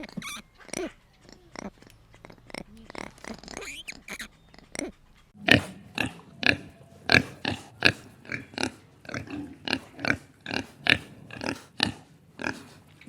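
A series of short animal calls, scattered at first, then louder and regular at about two a second from about halfway through.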